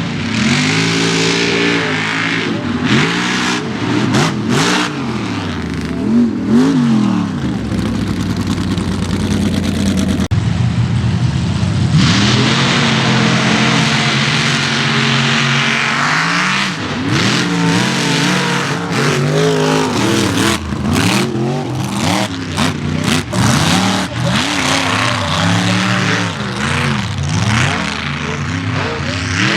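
Mega mud truck engines revving hard, the pitch rising and falling again and again over a loud rushing noise.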